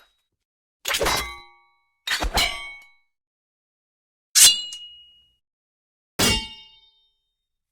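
Four separate metallic clangs with dead silence between them. Each is a sharp strike whose ringing tones die away within about a second.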